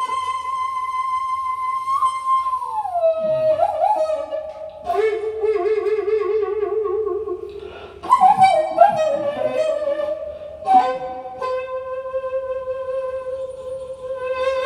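Daegeum, the Korean transverse bamboo flute, playing a slow improvised solo. It holds a long high note, slides down to a lower one about three seconds in, and swells through a wide, slow vibrato. More bent notes follow, and it settles on a long held lower note from about eleven seconds.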